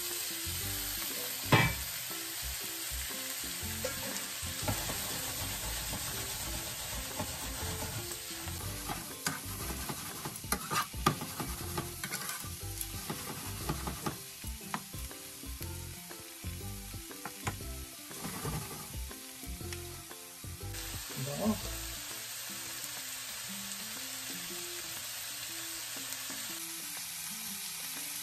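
Pork belly cubes sizzling as they fry in a pan with onion and garlic, with metal tongs scraping and clacking against the pan as they are stirred. There is a loud clack about a second and a half in, and more clatter in the middle.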